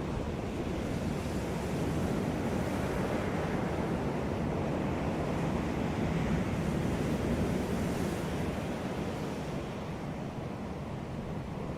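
Ocean surf washing onto a beach, a steady rush that swells gently and eases slightly near the end, with some wind noise on the microphone.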